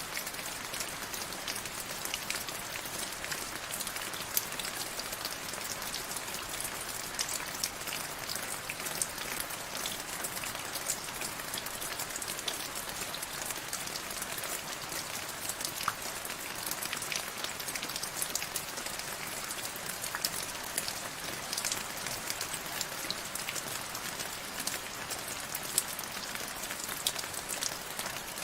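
Steady rain falling on a surface, an even hiss dotted with many sharp individual drop patters.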